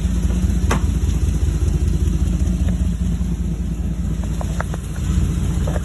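2012 Porsche Cayenne S V8 engine idling steadily, with one sharp click about a second in and a few light clicks near the end.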